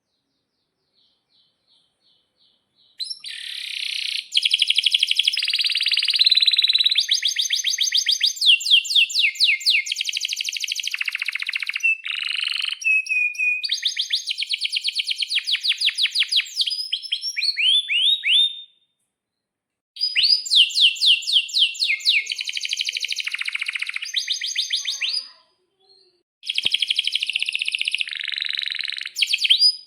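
Male domestic canary singing long phrases of rapid trills and rolls, fast runs of repeated high notes that change from one tour to the next. It sings in three long stretches, broken by two short pauses near the end.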